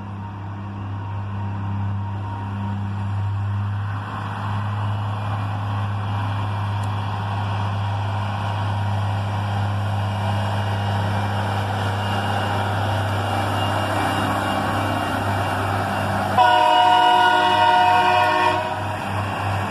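Diesel-powered rail maintenance train, a Loram shoulder ballast cleaner, approaching with its engine running steadily and track rumble building. About sixteen seconds in, its multi-tone air horn sounds once for about two seconds.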